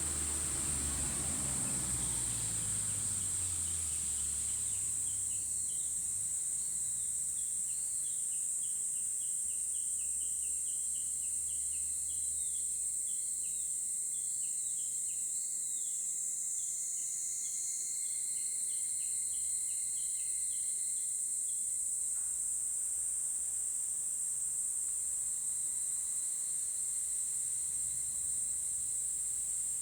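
Bird song over a steady high-pitched buzz: a bird sings quick runs of short repeated chirps, several a second with a few swooping notes, from about five seconds in until about two-thirds of the way through.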